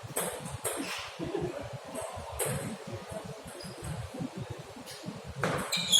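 Scattered sharp clicks of a table tennis ball striking bats and table, at irregular intervals, over a low background murmur.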